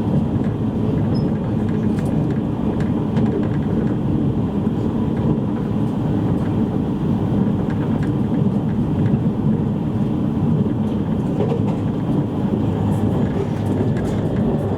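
Steady running noise inside a JR East E653 series electric train's motor car: a low, even rumble of wheels on rail and running gear, with a few faint clicks.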